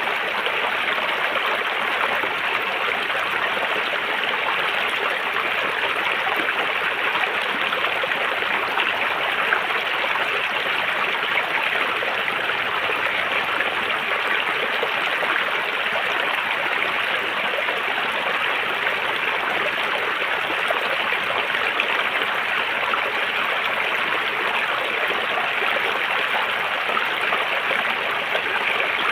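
River water flowing and rushing over stones, a steady, even babble with no change in level.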